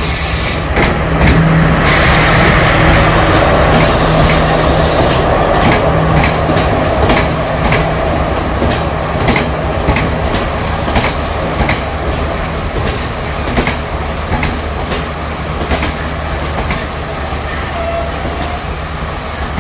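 Passenger train running past the platform: steady rumble with the regular clickety-clack of wheels over rail joints, about two clicks a second, and a low steady hum through the first half. The sound eases off gradually toward the end.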